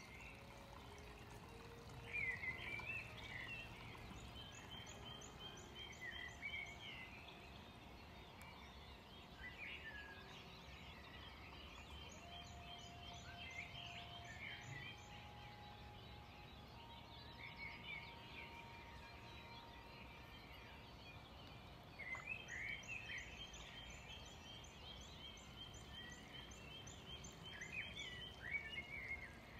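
Birds chirping and trilling faintly in short phrases every few seconds, over a low steady outdoor background hum.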